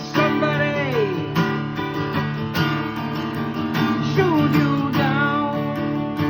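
Acoustic guitar strummed and picked, with two long notes sliding downward in pitch, one near the start and one about four seconds in.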